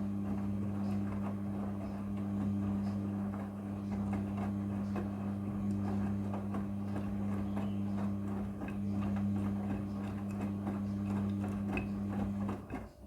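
Front-loading washing machine running, a steady electric hum with light water crackling and ticking over it, which stops abruptly near the end.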